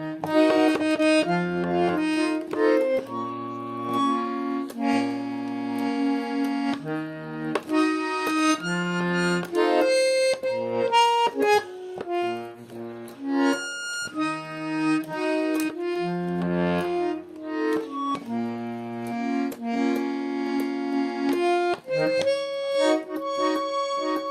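Russian garmon (button accordion) playing a tune: melody and chords over low bass notes that change every second or so.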